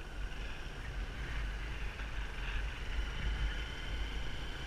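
Riding noise from a moving motorbike: a steady, gusty low rumble of wind and engine.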